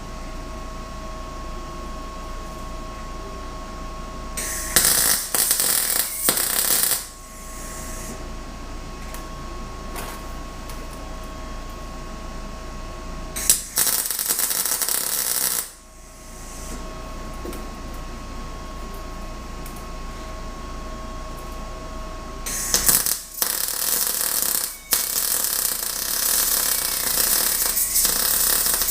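Arc welding crackling and hissing in three runs: two short ones of about two seconds each, then a longer one of about six seconds near the end. A steady hum with a faint whine sits between the runs.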